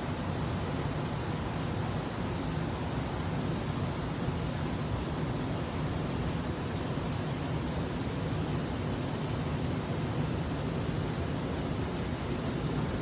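Steady, unbroken rush of flowing river water with a deep low rumble.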